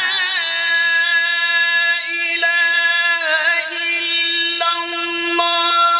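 A man chanting in Arabic, drawing out a single syllable into one long held note. The note wavers in ornaments at first, then holds nearly level, with small shifts in pitch, until a new phrase begins just after.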